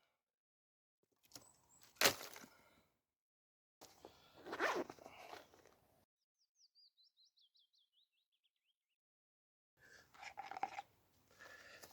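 Three short bouts of crunching and rustling as dry woodland sticks and leaf litter are handled, with a sharp snap about two seconds in. In a gap between them, a songbird sings a quick run of notes that fall steadily in pitch.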